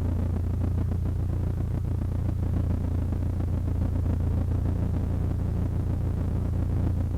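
Cessna 152's four-cylinder Lycoming engine running steadily: a low, even drone.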